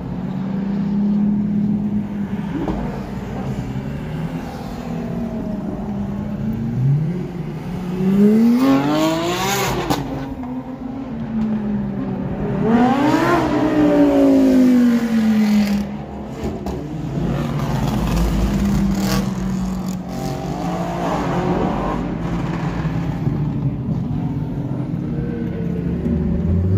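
Supercar engines revving as they accelerate past, over a steady engine drone. There are two loud runs, about eight and thirteen seconds in, each rising in pitch and then falling away, with smaller passes later.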